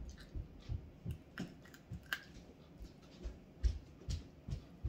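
Close-miked eating sounds: irregular soft clicks and low taps of chewing, coming roughly every half second.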